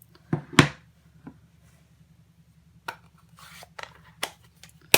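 Stamping tools and paper being handled on a tabletop: a string of sharp, separate taps and clicks with a brief paper rustle, the loudest taps about half a second in and at the very end.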